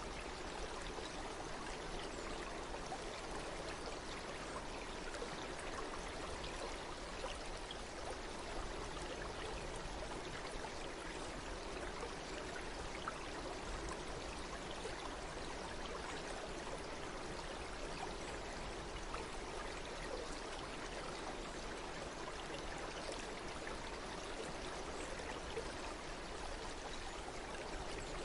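Stream water flowing steadily, a continuous rush of water with small trickles and splashes, unchanging throughout.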